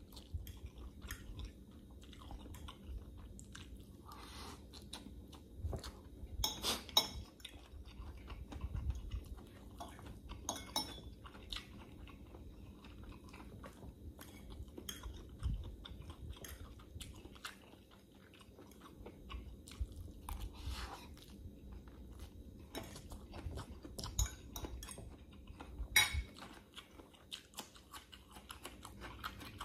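A person chewing and biting food: a hotdog, instant pancit canton noodles and fresh cucumber. There are sharp crunches throughout, the loudest about a quarter of the way in and near the end, along with a fork clinking against a glass bowl.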